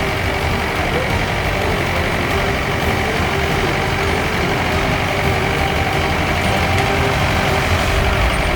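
Motor whaleboat's engine idling steadily, its water pump newly fitted with a fresh impeller.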